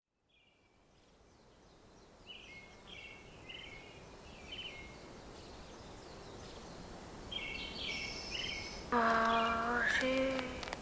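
Birds calling in short, repeated high chirps over a rising background hiss. About nine seconds in comes a louder, drawn-out call held at a steady pitch for about a second and a half.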